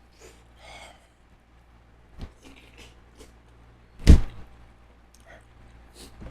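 Eating sounds of someone eating peeled shrimp: small clicks and mouth noises, with one loud sharp knock about four seconds in.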